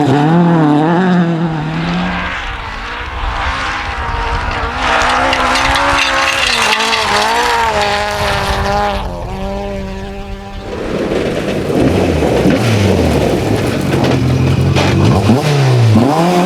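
Rally car engine revving hard, its pitch climbing and dropping repeatedly through gear changes and lifts. Around the middle there is a spell of rough, noisy tyre and road sound before the revs rise again near the end.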